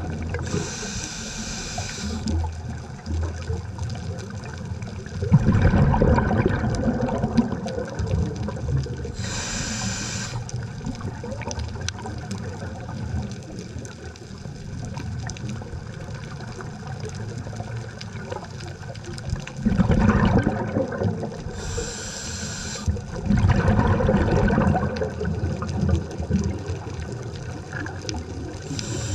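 Scuba diver breathing through a regulator underwater. Short hissing inhalations come every several seconds, alternating with louder bubbling exhalations, over a steady low wash of water.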